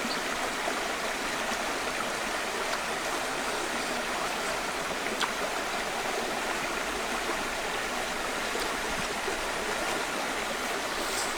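Steady rushing of flowing water, like a stream, with a faint click about five seconds in.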